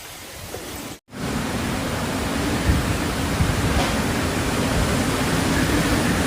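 Hurricane wind and driving rain: a steady, loud rushing noise. It cuts off abruptly about a second in and comes back louder.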